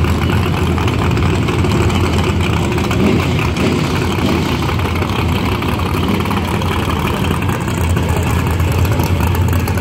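Drag-race Chevrolet Nova's engine running loud and steady at idle on the track, with no hard revving.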